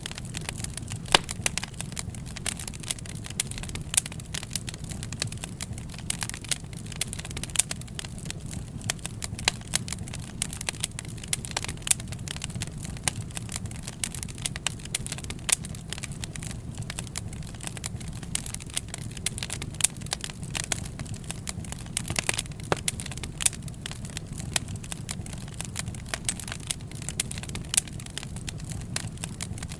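Wood fire crackling: irregular sharp snaps and pops, several a second, over a low steady rush of the burning.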